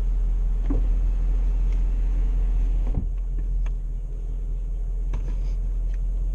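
Car engine idling, a steady low rumble heard from inside the cabin, with a few small clicks and a knock about three seconds in.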